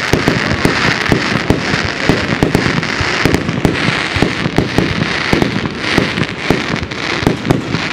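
Fireworks firing close to the ground in a rapid, irregular barrage of pops and crackles over a pulsing hiss.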